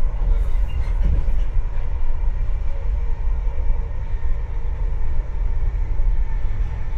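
Interior running noise of an InterCity 125 (HST) Mark 3 passenger coach at speed: a steady low rumble of wheels on the track with a faint steady whine above it.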